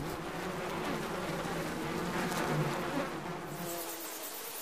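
Honeybees buzzing as they fly in and out of a hollow in an oak trunk. About three and a half seconds in, the buzz turns into a steadier, higher hum.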